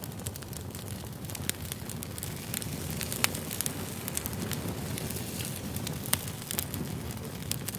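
Wood campfire burning: a steady low rush with frequent sharp crackles and pops, the loudest pop about three seconds in.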